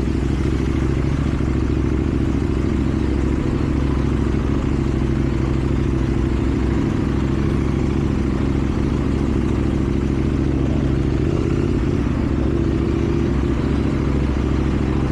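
KTM Duke 790's parallel-twin engine running at a steady engine speed through a slip-on exhaust, with no revving.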